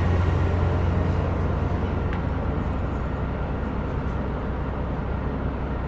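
Diesel engine drone of a KiHa 125 railcar heard from inside the cabin: a steady low hum with noise above it, easing off slightly in loudness.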